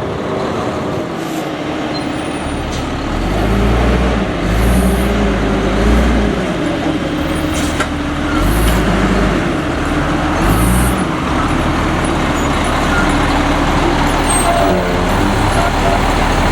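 Autocar front-load garbage truck's diesel engine running, its pitch stepping up and down repeatedly for several seconds and then settling to a steady run. A wavering whine and a few short hisses ride over it.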